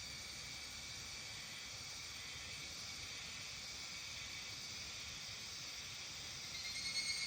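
Evening insect chorus of steady, high-pitched trilling. About six and a half seconds in, a nearer, louder pulsing call joins it.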